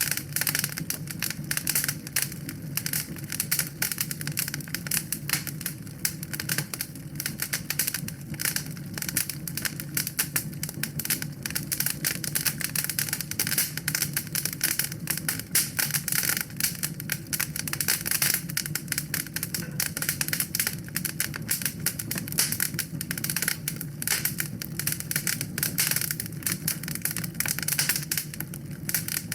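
Wood fire burning in a fireplace: a dense, continuous run of sharp crackles and pops over a steady low rumble of the flames.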